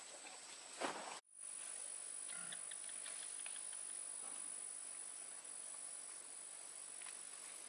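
Faint outdoor insect drone, a steady high-pitched tone over soft hiss, with a single knock just under a second in and a short break in the sound right after.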